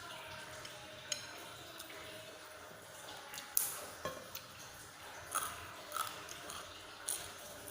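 A person eating bakso: scattered short smacks and clicks of chewing and eating, with light clinks of cutlery against the bowl.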